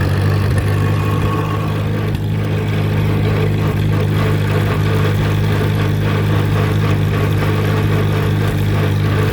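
Allis-Chalmers C tractor's four-cylinder engine running steadily at road speed in third gear, with the mower PTO switched off.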